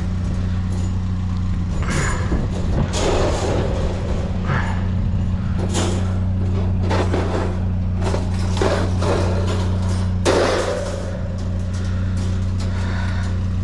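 A vehicle engine idles with a steady low hum. Over it come repeated knocks, rattles and clatter of junk being handled and pulled apart, the loudest clatter about ten seconds in.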